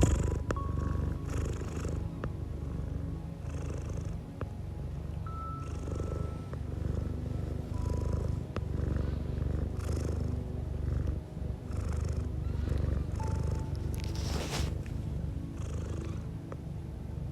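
Domestic cat purring close up, a steady low rumble with a soft breathy swell about every two seconds as it breathes in and out.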